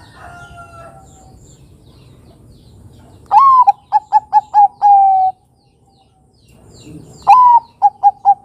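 Zebra dove (Bangkok perkutut) cooing twice. Each song is a rising then falling first note, a quick run of four short notes, and a long held closing note.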